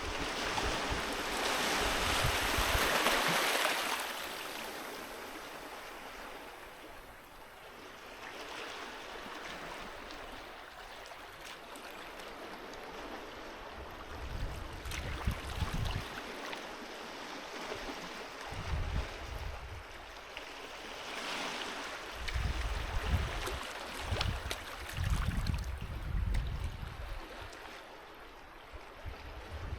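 Sea waves washing onto a beach: one wave surges loudly in the first few seconds, then a softer steady wash. Low rumbling thumps come and go through the second half.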